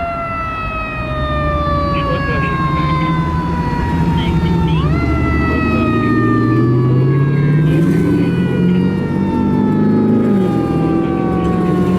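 Fire engine's mechanical siren, tagged by the uploader as a Federal Q: it spins up quickly twice, at the start and about five seconds in, and after each spin-up winds down in a long, slowly falling wail. The engine's diesel motor runs loudly underneath, building after about a second.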